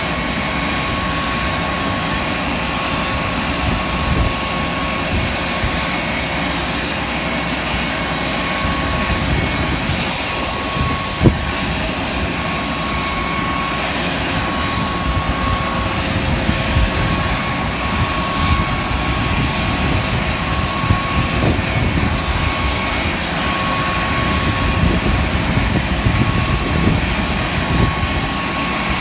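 Panavia Tornado GR4 running on the ground during start-up: a steady jet whine with a held tone over a broad rush of noise. A single sharp knock stands out about eleven seconds in.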